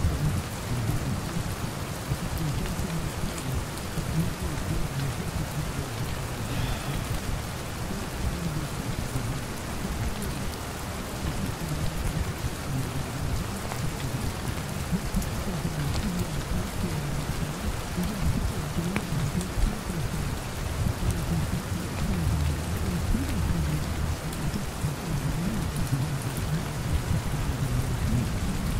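Steady rain pattering, with a low rumble underneath.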